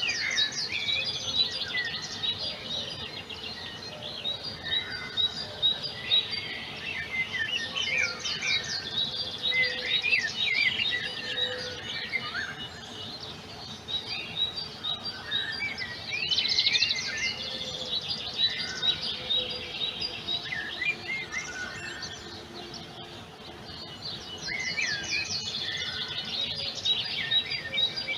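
Songbirds singing: a chorus of chirps, whistled glides and fast trills in phrases a few seconds long. The busiest stretches come at the start, around a third of the way in, past the middle, and again near the end.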